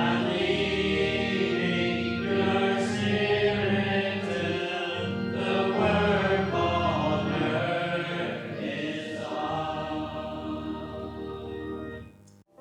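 A hymn sung by a choir with instrumental accompaniment, in long held notes; the music stops abruptly about twelve seconds in.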